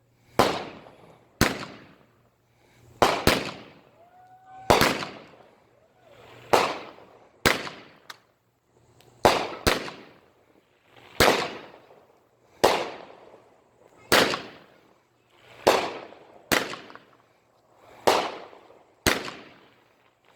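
A long run of consumer fireworks going off: sharp bangs about once a second, some in quick pairs, each trailing off with a fading crackle and echo.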